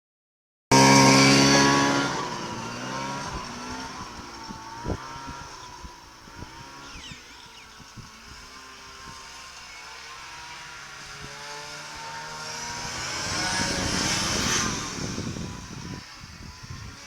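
Engine of a turbocharged 1988 Polaris Sprint running close by, then moving away and fading while its pitch rises and falls. It comes back louder from about twelve seconds in, with a rising high whine, and passes by near the end before fading again.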